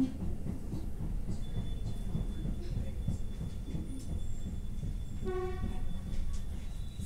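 Passenger train running, heard from inside the carriage: a steady low rumble of the wheels on the track. A thin high whine sets in about a second and a half in, and a short pitched beep sounds about five seconds in.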